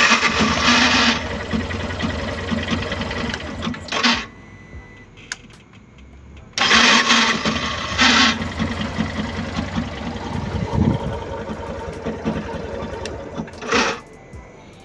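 Yamaha Fazer 150's electric starter motor cranking the engine twice, a shorter attempt and then a longer one. Each opens with a loud harsh grinding burst and goes on as a fast rattle. The ugly noise comes from a failing starter motor, not the engine.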